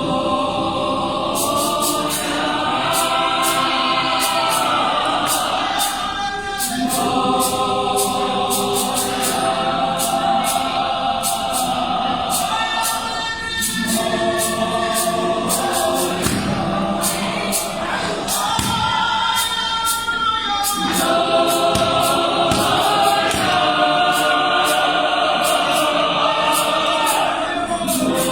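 Gospel choir singing in sustained multi-part harmony, with a steady ticking beat high above the voices.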